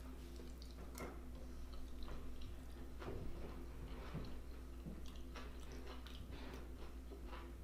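Close-miked chewing and mouth sounds of a person eating, a run of small irregular wet clicks and smacks over a steady low hum.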